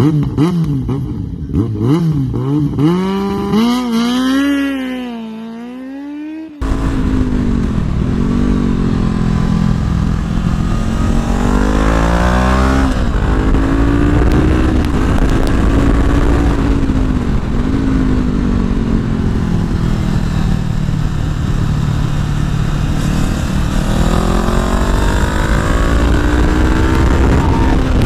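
Honda CBR500R parallel-twin engine revving up and down through the gears. About six seconds in, a loud steady rush of wind noise on the helmet-mounted microphone cuts in abruptly under the engine.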